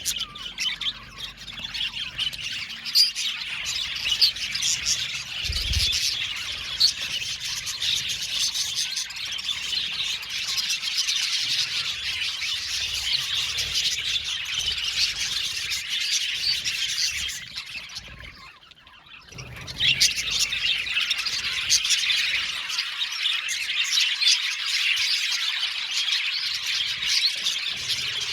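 A colony of budgerigars chirping and squawking together in a dense, continuous chatter. The chatter drops away briefly about two-thirds of the way through, then resumes at full level; a single low thump sounds near the start.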